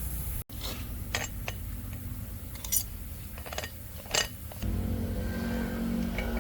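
Metal parts and tools clinking against each other a handful of times over a low steady hum. About four and a half seconds in, a steady droning machine with a low hum comes in and runs on.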